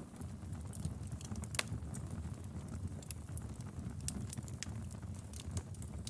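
Wood fire crackling in a fireplace: irregular sharp pops and snaps over a steady low rumble of flame, with one louder pop about a second and a half in.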